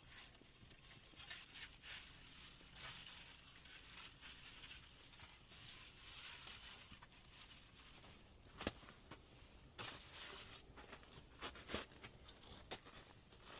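Faint rustling and crinkling, with a few sharp clicks or snaps about nine seconds in and near the end.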